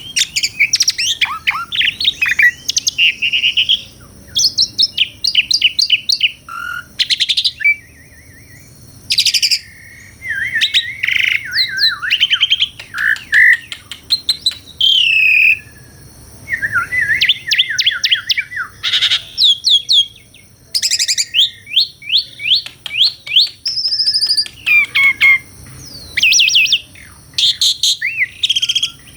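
Asian pied starling (jalak suren) singing a long, varied song. Quick runs of repeated chattering notes mix with gliding whistles and harsh notes, coming in bursts with short pauses between them.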